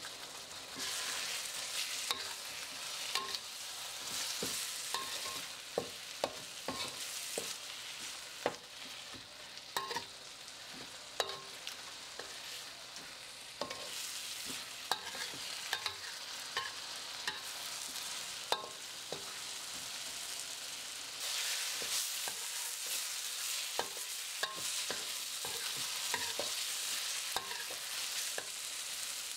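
Ground spice paste sizzling in hot oil in a metal wok, with a steady hiss. A metal spatula stirs it, scraping and knocking against the wok at irregular intervals.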